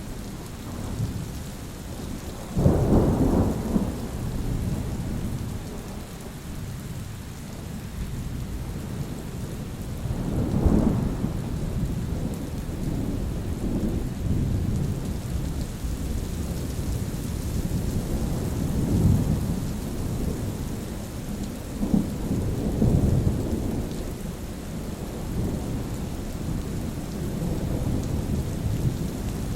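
Steady rain hissing with rolling thunder: a sudden loud clap of thunder about two and a half seconds in, then further deep rumbles about ten seconds in and again around twenty seconds in.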